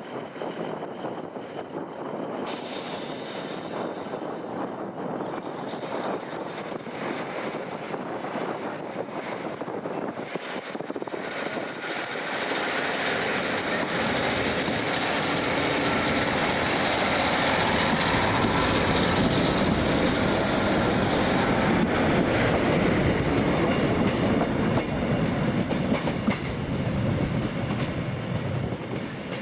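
A train running on rails, with a steady rumble and clatter that grows louder over several seconds and then eases near the end. A thin high whine rises slowly in pitch and fades out well before the end.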